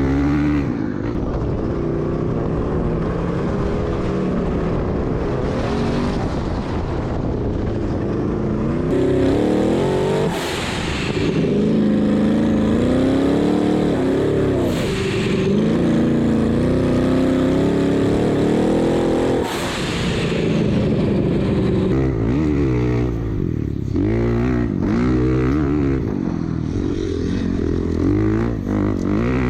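Off-road vehicle engine being driven hard, its pitch rising and falling over and over as the throttle is worked and the gears change.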